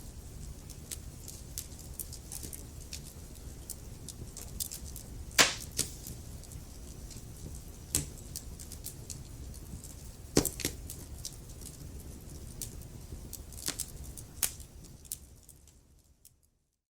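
Wood fire crackling and popping over a low steady rumble of flames, with a few loud sharp pops among the small crackles. The sound fades out and stops about a second before the end.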